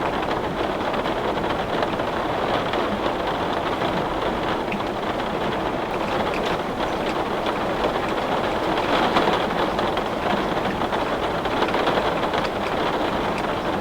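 Heavy rain falling steadily on a window, a dense, even hiss with scattered small ticks of drops striking the glass.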